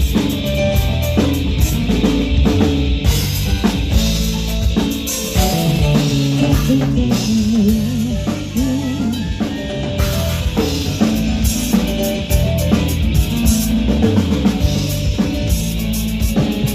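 A live band plays rock music at a soundcheck. A drum kit keeps a steady beat with bass drum and snare hits, under bass and guitar notes; about 7 to 9 seconds in, a wavering, bending note rises over the rest.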